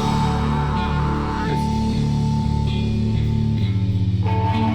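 Live rock band playing, with electric guitar and bass holding long, slowly changing low notes under a steady high tone.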